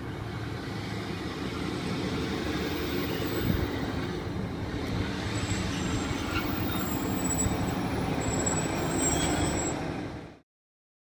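A Class 150 Sprinter diesel multiple unit runs past close by along the platform: diesel engine rumble and wheels on the rails, growing louder as it draws level. The sound cuts off suddenly near the end.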